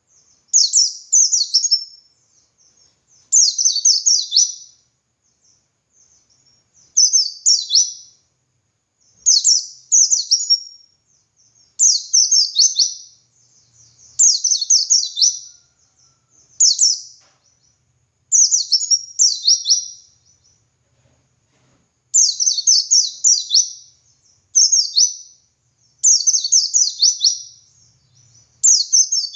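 White-eye (pleci) singing its gacor 'ngalas' song: short bursts of rapid, very high sliding twitters, each about a second long, repeated about every two seconds with brief pauses between.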